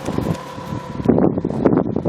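Wind buffeting the camera microphone, with irregular rustling and crackling that grows louder about a second in.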